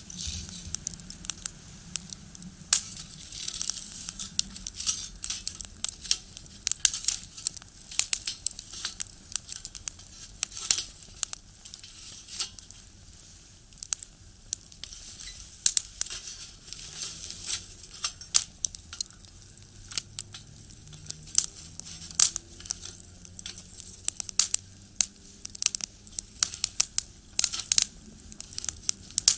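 Firewood crackling and popping as it burns in a box stove: a steady run of irregular sharp snaps, some much louder than the rest.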